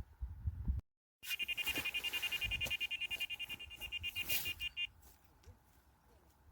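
Electronic carp bite alarm sounding a fast, continuous string of high beeps for about three and a half seconds, then stopping: line running off a rod as a carp takes the bait.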